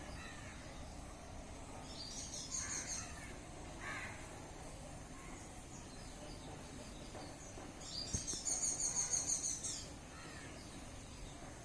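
A small bird's rapid, high-pitched twittering in two bursts: a short one about two seconds in and a louder one lasting nearly two seconds about eight seconds in. Fainter, lower calls and a steady background hiss sit underneath.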